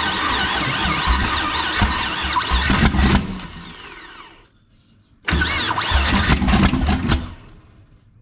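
Twin-turbo LS1 V8 cranked over on its starter in two bursts, the second beginning about five seconds in, during a compression test with one spark plug out. The cylinder under test reads 0 PSI and the tester comes out soaked with coolant, the sign of a failed head gasket.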